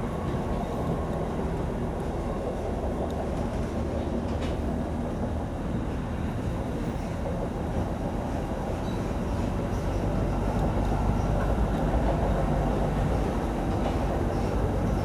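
Steady low rumble of a vehicle in motion, growing slightly louder after about ten seconds.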